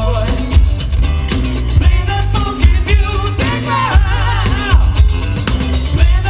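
Live rock band playing a song: lead vocal over electric bass and a steady drum beat.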